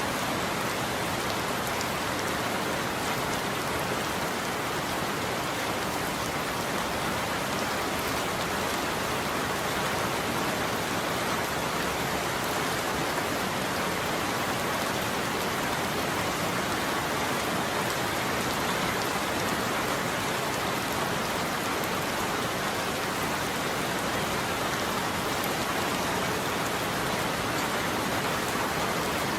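Steady rain falling on a roof, an even hiss with no thunder.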